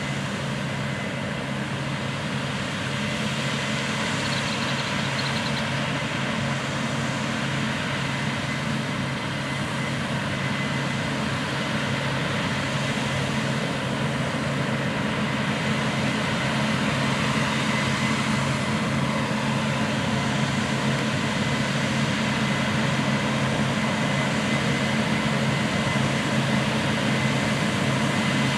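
Heavy Case IH harvest machinery running in a wheat field: a steady diesel engine drone with a constant high whine, growing gradually louder as the machines draw nearer.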